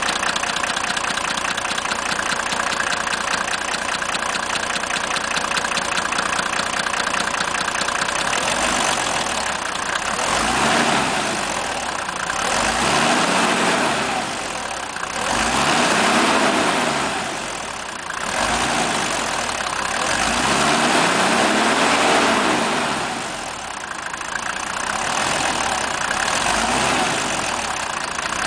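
Mercedes-Benz 300D (W124) 3.0-litre six-cylinder diesel engine idling steadily, then revved up and let fall back to idle several times from about eight seconds in, each rev rising and falling over two to four seconds.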